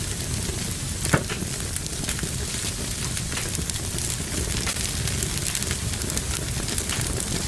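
Fire burning in a fireplace, crackling steadily over a low rumble, with one sharp loud pop about a second in.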